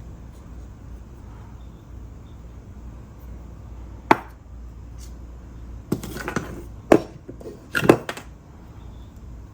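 Small hard objects handled and set down on a work surface: one sharp click about four seconds in, then a cluster of knocks and taps about two seconds later, over a low steady hum.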